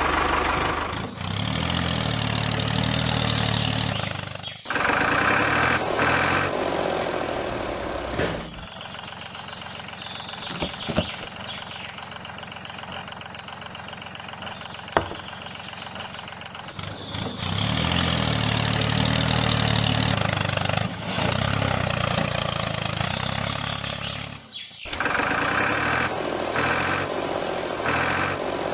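An engine running steadily, like a tractor at idle, in several stretches that break off and restart abruptly. It is quieter in the middle, with a few sharp clicks.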